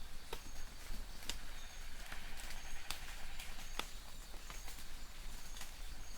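Light rain in a forest: a steady hiss with drops ticking irregularly on leaves. Short high chirps of a distant bird repeat every half second or so.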